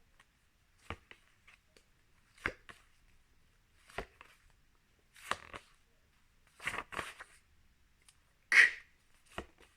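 Paper flashcards being handled and flipped: a string of short sharp taps and rustles, one every second or so.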